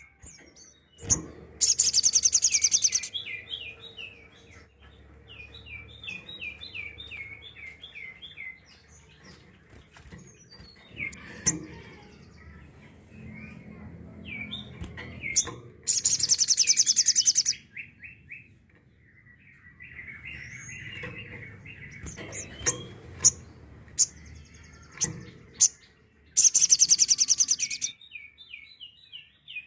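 Little spiderhunter (sogok ontong) singing: runs of quick repeated chip notes, broken three times by a loud, harsh, rattling burst about a second and a half long (near the start, about halfway, and near the end). These bursts are the rapid 'tembakan' volleys that bird keepers prize.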